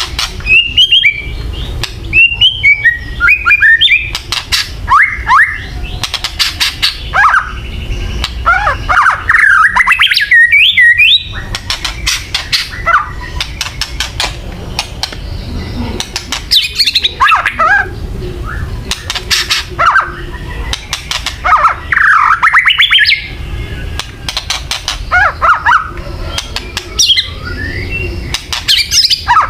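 Songbird giving a harsh, rapid rattling chatter (kretekan) mixed with short whistled glides, in repeated bursts over a steady low hum. This is a kretekan call recording played to provoke white-rumped shamas (murai batu) into fighting form.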